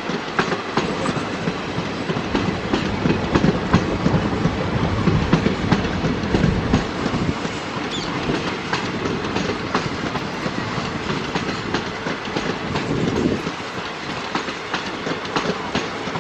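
Passenger train rolling past, its wheels clicking over the rail joints over a steady rumble, a little quieter for the last few seconds.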